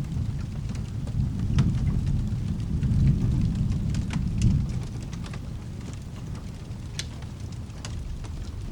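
Low rolling thunder that swells about a second in and fades after about five seconds, over steady rain, with a few sharp fireplace crackles scattered through it.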